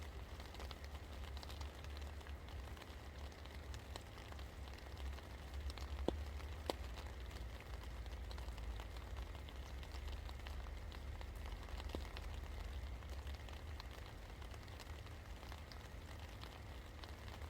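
Steady rain falling, with scattered drops ticking and a couple of sharper taps about six seconds in, over a steady low rumble.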